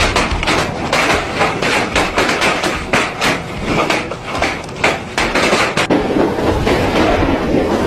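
Hailstorm: hailstones pelting hard surfaces in a loud, dense clatter, with many sharp separate impacts through a constant rush.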